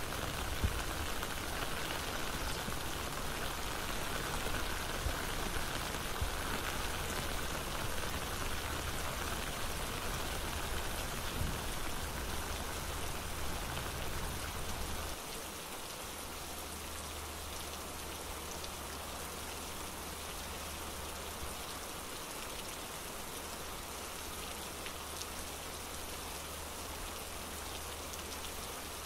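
Rain falling on an umbrella held overhead, a dense, steady hiss of drops, a little quieter from about halfway through.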